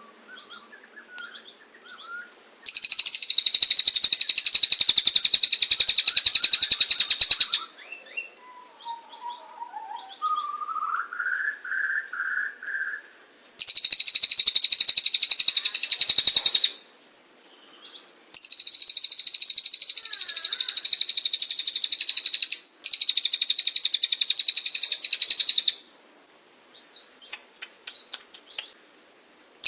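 Songbird singing in long, very rapid high-pitched trilled rolls of several seconds each, four in all, with short chirps between them and a lower, rising run of whistled notes in the middle.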